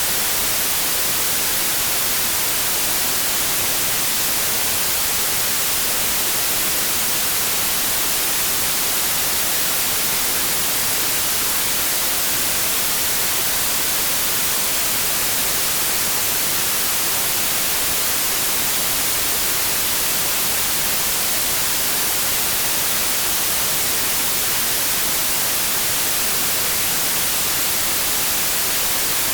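Steady white noise: an even, unchanging hiss of static with no tones or breaks.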